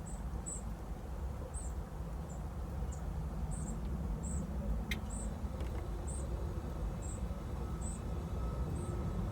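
An insect chirping, short high chirps roughly once a second, over a steady low rumble, with a single sharp click about five seconds in.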